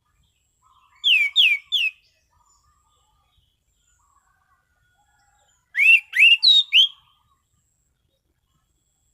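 Orange-banded thrush (anis cendana) singing in its clear, open 'ngeplong' style. About a second in it gives a short phrase of three quick, falling whistled notes, then a four-note phrase a few seconds later, with silence between.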